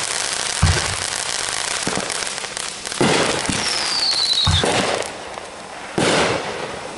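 Aerial fireworks going off: four sharp booms a second or two apart over a dense crackling that thins out about five seconds in, with a falling whistle in the middle.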